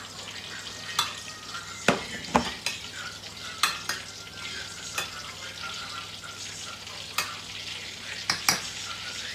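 Aubergine slices shallow-frying in hot oil in a stainless steel pan: a steady sizzle, broken by sharp clicks about ten times.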